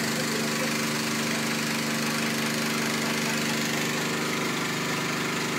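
Motorboat engine running steadily at one even speed, with no revving.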